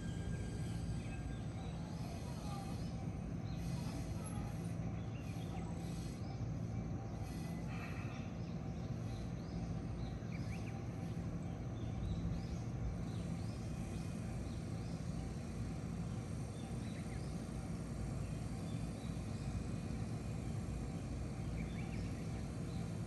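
E129-series electric train coming to a stop at the platform and then standing with a steady low hum from its equipment, while birds chirp in the background.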